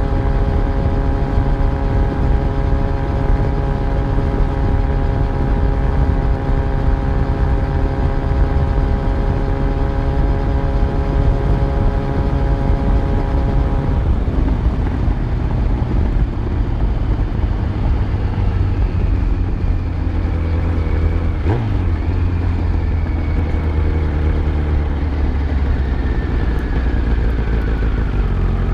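Yamaha FZ1 inline-four motorcycle engine running on the road at steady revs, the engine note changing about halfway through.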